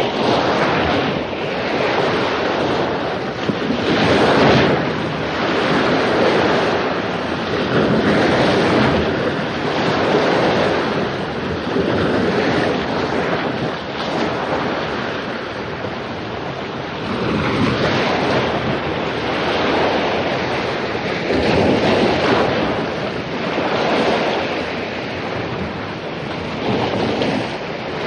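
Ocean waves crashing on a beach, the surf swelling and falling back every few seconds, with wind.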